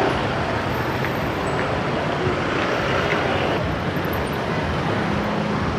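Steady street traffic: motorbikes and cars passing, with a low engine hum coming in near the end.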